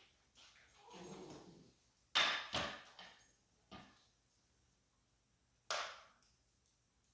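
A soft rustle, then four sharp knocks over a few seconds, the first two the loudest, like hard objects being handled and set down on a workbench.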